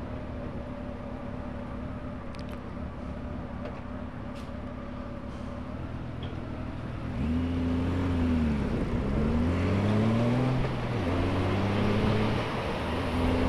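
Touring motorcycle's engine idling at a standstill, then pulling away about halfway through. It gets louder and its pitch rises and drops several times as it accelerates through the gears.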